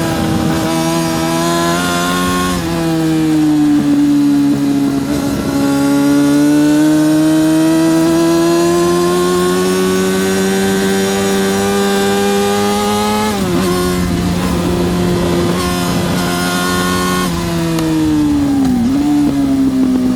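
Yamaha R6 (RJ03) 600cc inline-four racing engine at high revs under full throttle. Its pitch drops sharply with a gear change about two and a half seconds in, then climbs slowly for about ten seconds in a high gear. It drops sharply again at the next shift, and falls in steps near the end as the bike slows.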